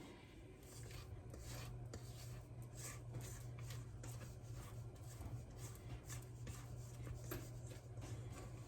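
A spatula scraping thick brownie batter out of a mixing bowl in repeated short strokes, over a steady low hum.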